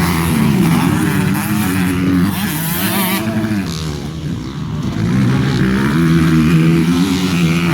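Motocross bikes' engines revving hard, pitch rising and falling with throttle and gear changes, more than one bike heard at once. The sound dips about halfway through and swells again as the bikes come closer.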